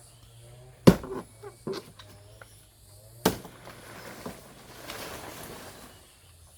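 Two sharp knocks about two and a half seconds apart, the first the loudest, with a few lighter taps between them, then a stretch of rustling.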